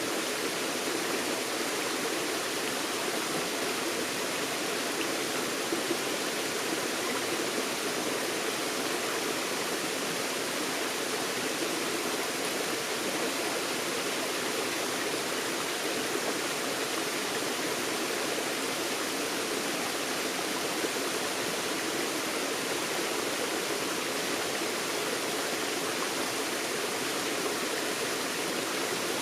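A forest stream flowing over rocks, a steady, even rush of water that does not change.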